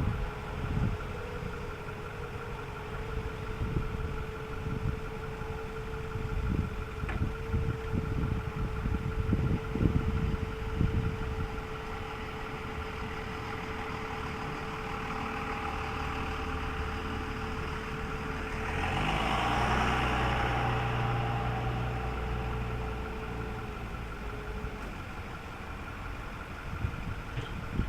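Ford F-550 Super Duty truck engine idling with a steady whine over it. About nineteen seconds in, the engine note comes up for a few seconds and then settles back.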